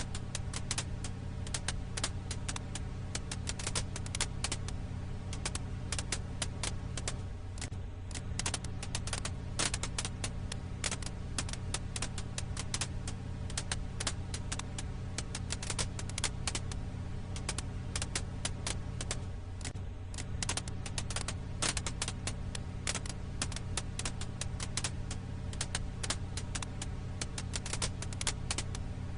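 Campfire firewood crackling: dense, irregular pops and snaps over a steady low hum.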